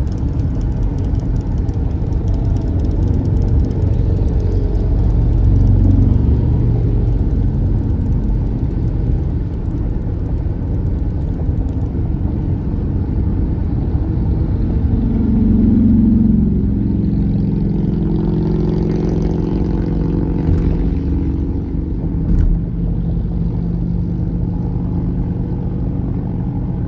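Motorcycle engines rumbling in slow street traffic, with one engine revving louder and falling away about halfway through.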